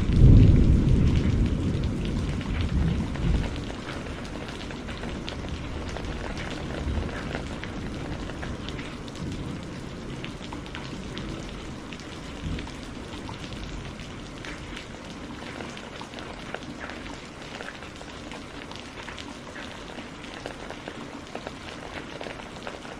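Heavy rain falling steadily, with small drops ticking through the hiss. A deep roll of thunder swells just after the start and rumbles away over the first three or four seconds, leaving the rain alone.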